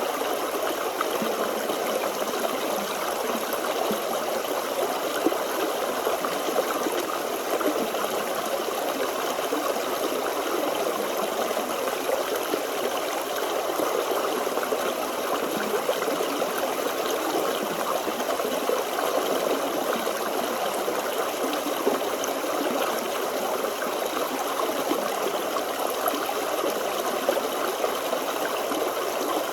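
A forest stream running and gurgling steadily over stones.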